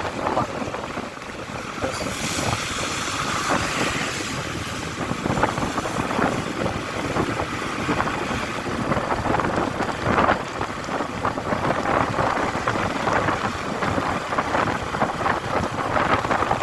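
Wind rushing over the microphone of a moving motorcycle, with the Honda Shine's single-cylinder engine running beneath it. A brighter hiss swells about two seconds in and fades by about four seconds.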